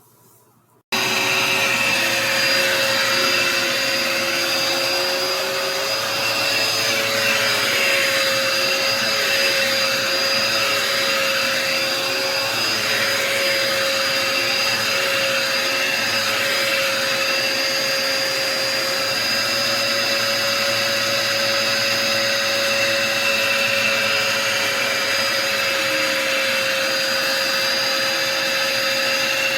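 Dirt Devil Endura Reach bagless upright vacuum cleaner switched on about a second in, starting suddenly, then running steadily with a constant motor whine.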